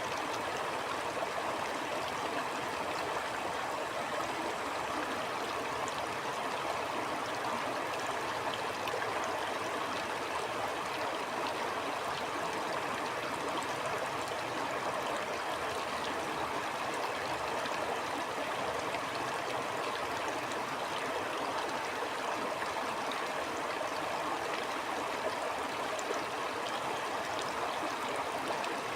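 Steady flowing stream water, an even rushing and gurgle with no change over the stretch.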